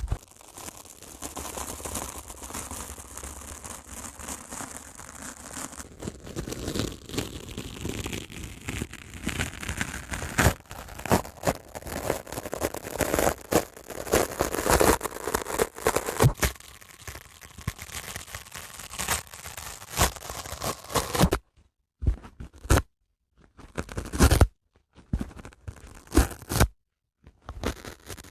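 Dry sponge worked by hand, ripping and scratching in a run of crisp crackling noises. These grow denser and sharper from about ten seconds in, then come as separate bursts with short silent gaps in the last several seconds.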